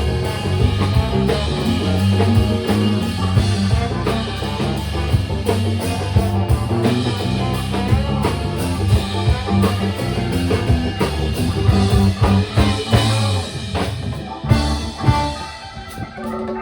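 Live funk band playing: electric guitar, bass and drum kit. Near the end the bass drops out and the music thins to sparser drum hits.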